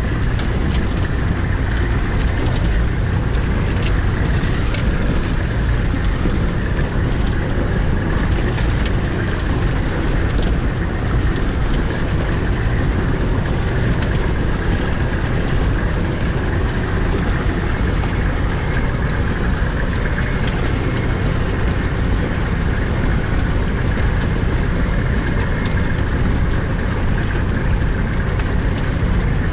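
Four-wheel-drive's engine running steadily with a low, even rumble, heard from inside the cab as the vehicle crawls through a creek crossing.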